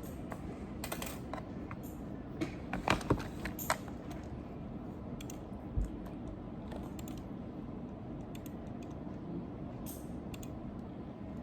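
Typing on a computer keyboard: scattered key clicks, with a quicker run of louder keystrokes about three seconds in, over a steady low background hum.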